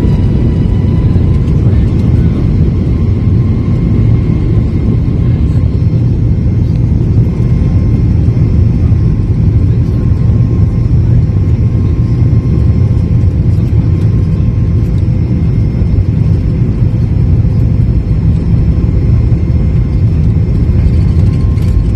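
Steady low rumble of Boeing 737 MAX 8 cabin noise, with faint steady whining tones above it.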